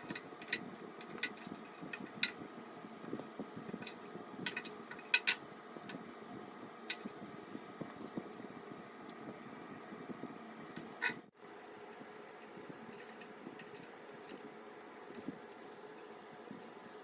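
Scattered sharp metallic clicks and clinks from tools and scooter parts being handled during disassembly, over a faint steady hum.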